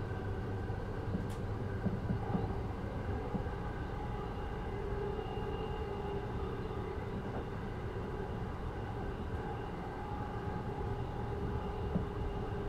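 Class 333 electric multiple unit under way, heard from inside the car above the traction motors and bogie: a steady low rumble of the wheels on the track with the traction motors' whine laid over it as several held tones. A sharp click about a second in, and a few short knocks around two seconds and again near the end.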